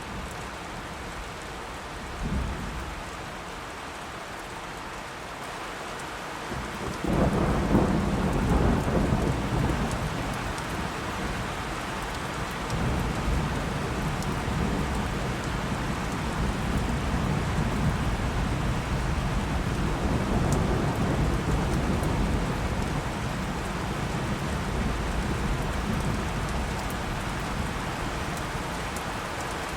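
Steady rain with a thunderstorm: a short low rumble of thunder about two seconds in, then a loud thunderclap about seven seconds in that turns into a long rolling rumble under the rain.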